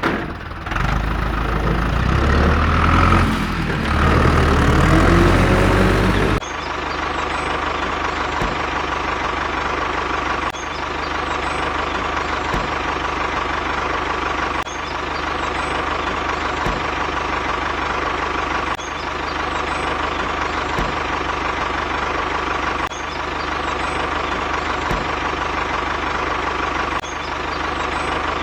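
A steady engine-like running sound, such as a tractor or truck idling, after a louder, different sound that cuts off abruptly about six seconds in; the running sound dips briefly about every four seconds.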